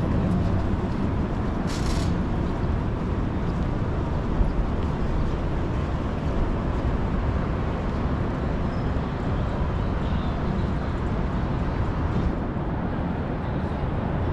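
Steady city street ambience: the low rumble of passing traffic, with a brief hiss about two seconds in.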